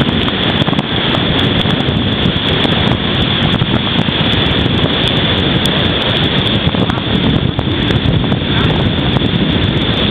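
Loud, steady rushing of wind and vehicle noise during a severe thunderstorm, with no distinct events standing out.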